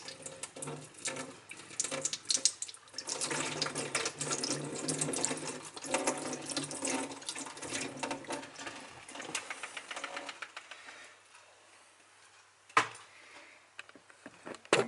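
Kitchen tap running into a sink, with clinks and knocks of crockery, for about eleven seconds; the water then stops, and a single knock comes a couple of seconds later.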